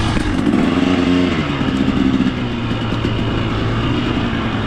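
KTM two-stroke dirt bike engine, revved up and back down about a second in, then running steadily at low revs.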